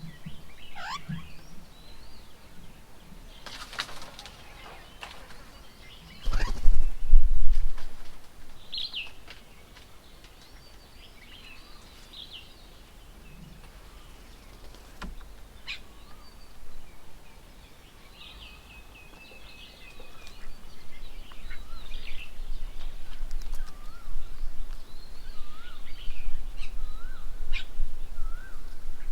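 Wild birds at a bird table calling with scattered short chirps, whistles and chatter. A loud low rumble comes about six seconds in and lasts under two seconds, and a lower steady rumble builds through the second half.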